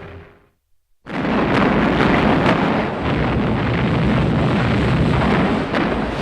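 Music fades out, and after a moment of silence a loud battle soundtrack starts about a second in: a dense steady rumble with a few sharp bangs.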